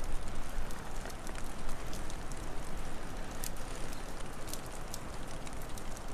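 Wood fire crackling, with scattered sharp pops and one louder snap about halfway through, over a steady low rumbling hiss.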